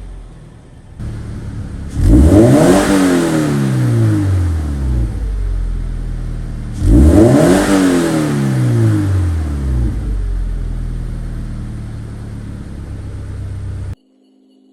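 Subaru BRZ's flat-four engine revved twice through its exhaust, each blip rising quickly and then falling slowly back to idle. The engine idles between the revs.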